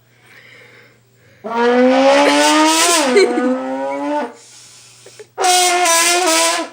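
Trombone blown in two long, loud, buzzy blasts. The first lasts about three seconds, rising slowly in pitch and then sliding down partway through. The second is shorter and comes a second later.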